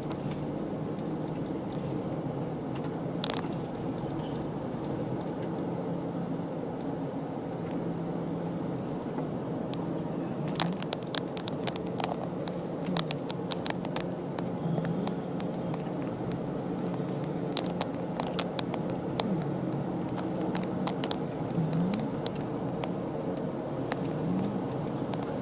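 Car running along a road: a steady engine and road hum, with a few slight rises and falls in pitch. Scattered sharp clicks and ticks come in clusters from about the middle on.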